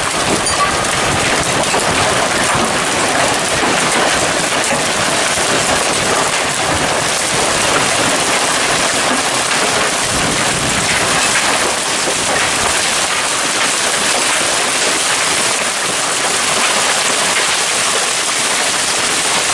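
Heavy hail falling, a dense, steady clatter of many hailstones striking surfaces together with pouring rain.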